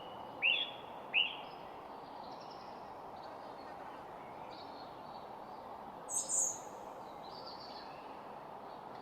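Small birds chirping: two short arched chirps about half a second and a second in, fainter calls scattered throughout, and a higher, louder chirp a little past halfway, over a steady background hiss.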